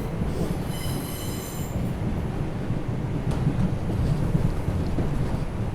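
R142 subway train heard from inside the car: a steady low rumble of wheels on rail, with a high-pitched squeal of wheels on the track from about half a second in, lasting over a second.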